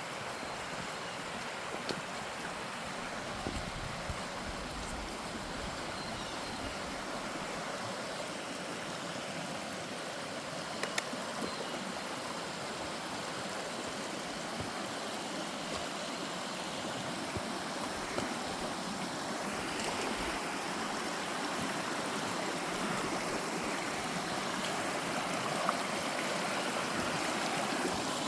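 Creek water rushing steadily, growing a little louder in the second half, with a few scattered sharp knocks.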